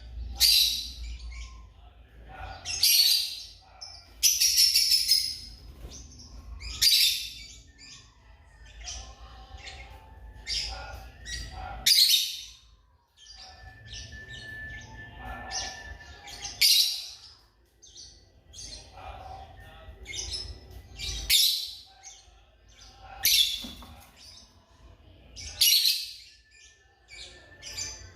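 African lovebirds giving shrill, high-pitched chirping calls in bursts about every two seconds.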